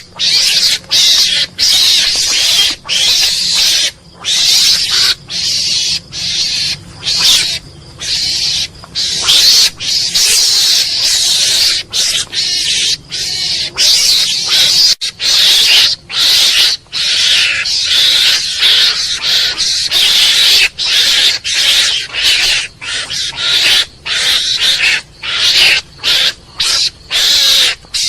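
Mongoose calling: a long run of harsh, noisy calls, one after another with short breaks between them.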